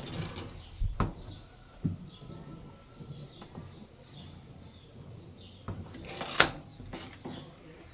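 A few sharp knocks and clatters, the loudest near the end, over faint bird chirps.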